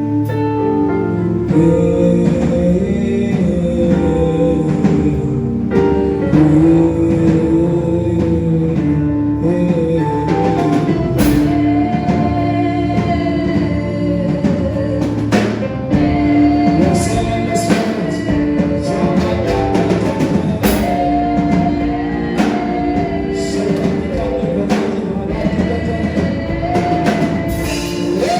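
Live gospel worship music: singing over a band with drum kit and sustained instrumental chords.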